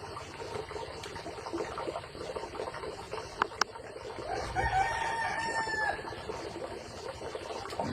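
Rooster crowing once about halfway through, a single drawn-out call lasting over a second. A couple of sharp clicks come just before it.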